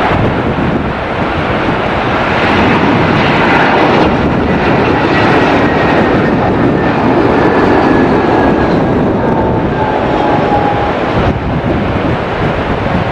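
Airliner passing close by: a loud, steady engine rush with a faint whine that slowly falls in pitch as it goes by.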